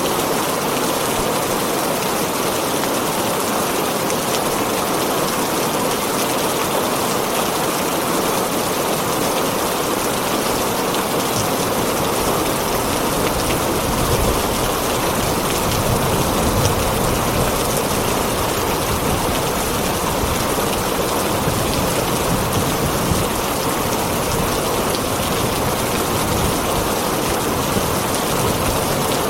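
Heavy rain drumming steadily on a tin roof, with a low rumble swelling through the middle.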